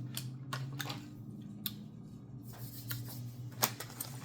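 Scattered sharp clicks and brief rustles of snack packaging being handled, over a steady low hum.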